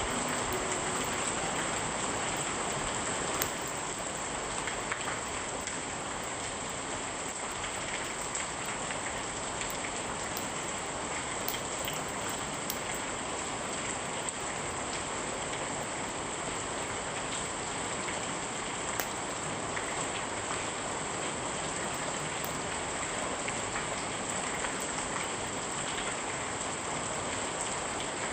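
Steady rain falling, with a scattering of sharp crackles from a wood fire every few seconds.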